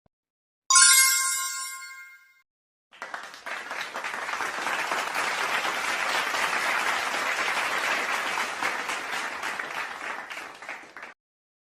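A bright bell ding that rings out and fades over about a second and a half, followed by an audience applauding for about eight seconds, which cuts off suddenly.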